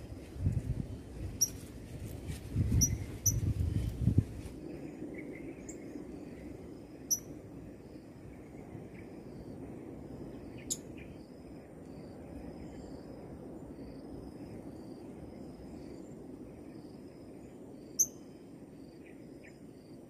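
Short, sharp, high-pitched bird chirps, singly or in quick pairs, over a steady high insect whine and a softer, evenly repeating insect chirr. A few low thumps and rustles come in the first four seconds.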